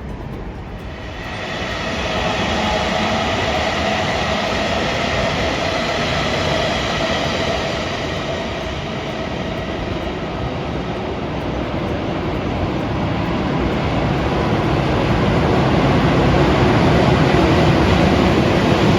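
A train running past at close range: a steady rumble and rush with a faint held whine, building about a second in and growing louder toward the end.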